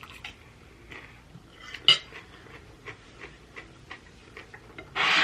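Cutlery tapping on a plate, with one sharp ringing clink about two seconds in. A brief, loud rasping noise comes near the end.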